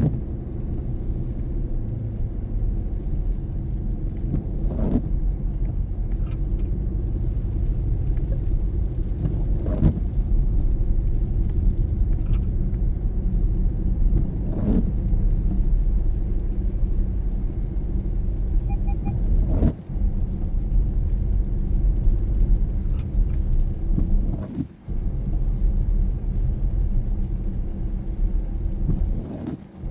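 A car driving in the rain: a steady low rumble of tyres and engine, with a short swish about every five seconds from the windshield wipers on an intermittent setting.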